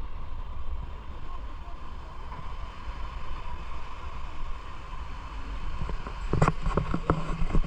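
Wind buffeting the microphone with a steady low rumble, then a short cluster of sharp knocks about six seconds in.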